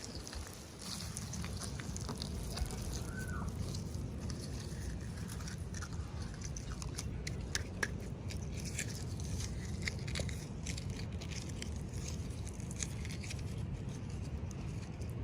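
Small scattered clicks and crackles of toy packaging being handled and opened, over a steady low hum.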